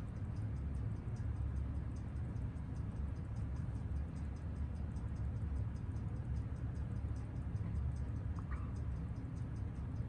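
A Seiko 6139 automatic chronograph movement ticking evenly at about six beats a second while it is regulated for beat error and rate on a timegrapher. A steady low hum runs underneath.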